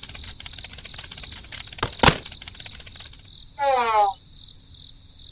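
Steady insect-like chirring made of rapid fine ticks, with a sharp click about two seconds in. A little after halfway, the chirring stops and a brief rapid trill of pitched pulses follows.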